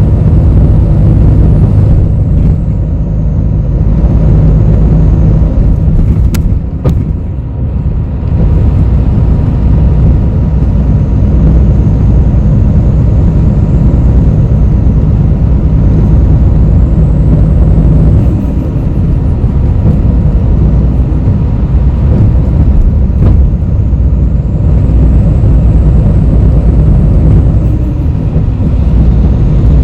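Steady low rumble of a city bus's engine and road noise, heard from inside the passenger cabin. About six to seven seconds in, the rumble briefly eases and a couple of sharp clicks sound.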